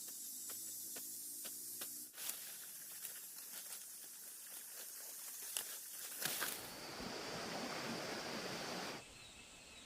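Rain and running water: a steady hiss with scattered sharp clicks, a louder rushing noise from about six to nine seconds in, then a quieter hiss. The sound changes abruptly several times.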